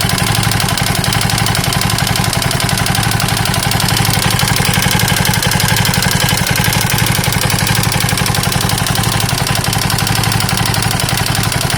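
KTM 640 LC4 single-cylinder four-stroke engine idling steadily with even pulses, making a bad engine noise that the owner cannot place as a top-end or bottom-end problem.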